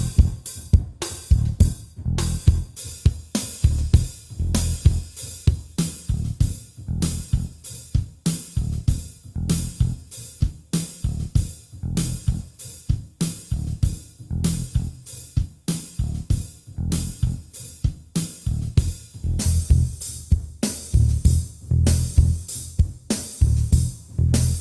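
Instrumental rock music: electric guitar and bass over a steady drum beat, stopping abruptly at the end.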